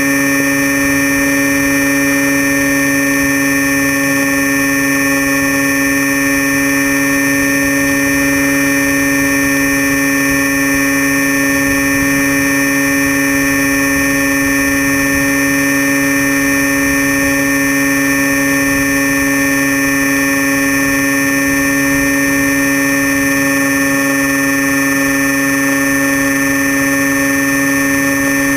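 Electric motor and propeller of a Crashtesthobby Storm Chaser RC plane, a steady high whine heard from a camera mounted on the plane. The pitch holds level throughout: the motor is at constant throttle in cruise.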